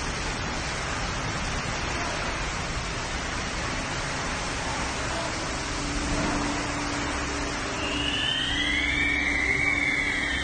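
Steady rushing roar of storm wind and rain. About eight seconds in, a high wavering tone starts, rising and falling slowly in pitch.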